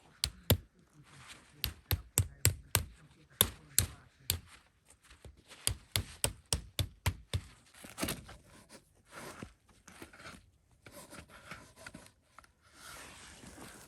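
Chopping: a run of sharp knocks, several a second in quick clusters for about the first seven seconds, then softer scraping and rustling.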